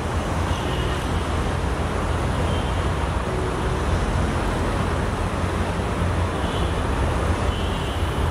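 Steady low rumble of a diesel locomotive-hauled passenger train running in the distance, under a constant even hiss of background noise.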